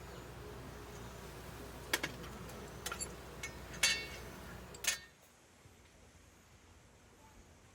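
A handful of light clinks and taps of tableware against dishes, spaced over a few seconds. About five seconds in the background drops away abruptly to a faint, quiet ambience.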